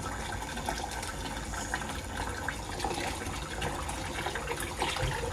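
Water running in a steady rush, with small irregular splashes through it.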